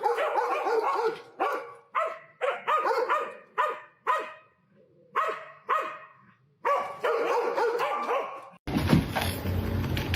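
A dog barking and yipping over and over in short pitched calls, some run together and some with brief gaps. Near the end it cuts off abruptly into a steady rushing noise.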